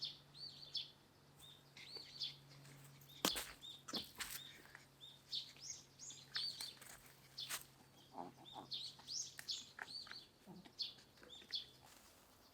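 Small birds chirping and twittering many times over, with a few sharp clicks or knocks in between, the loudest about three seconds in. A faint steady low hum underneath stops near the end.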